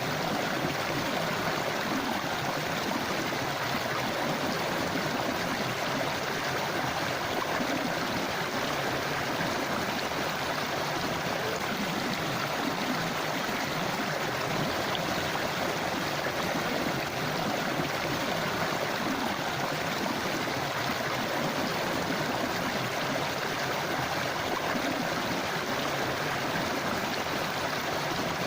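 Forest river flowing over rocks: a steady rushing and gurgling of water.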